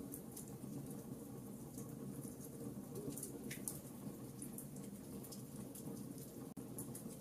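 Wood fire crackling in a fireplace: irregular sharp pops and snaps over a steady low rush of flame, with a split-second dropout about six and a half seconds in.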